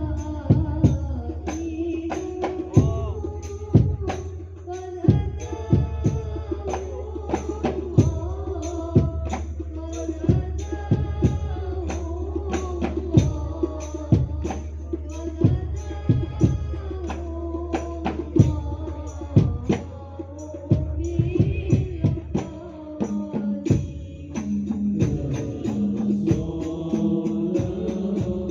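A male voice singing a devotional melody with ornamented, wavering notes, accompanied by irregular strikes of hand-played frame drums and a steady low drone underneath.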